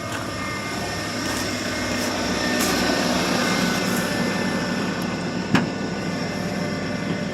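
A 1993 Ford F-150's 5.0-litre (302) V8 idling steadily just after a cold start, with a sharp click about five and a half seconds in.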